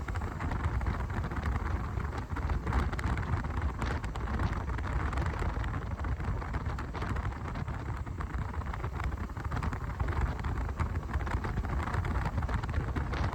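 Steady monsoon rain, with a constant low rumble underneath.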